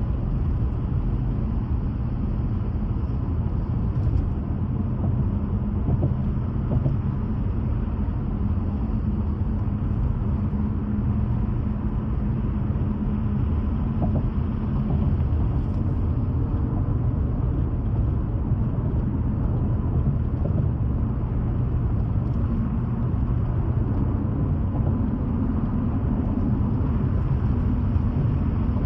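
A car driving along at steady speed: a continuous low rumble of engine and road noise, with no change in pace.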